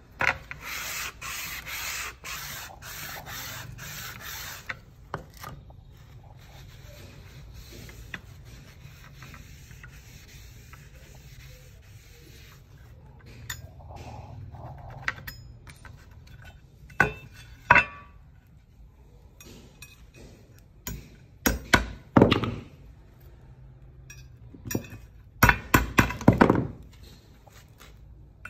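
A run of about eight rubbing or filing strokes worked back and forth over the first five seconds. Further on come a few short, sharp knocks and clatters.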